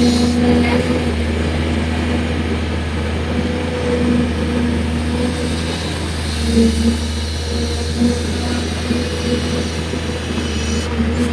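Excavator's diesel engine running steadily: a constant low drone with a mid-pitched hum that swells and eases slightly.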